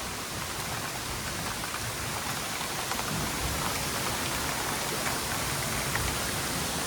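Steady rain coming down, an even hiss with no breaks.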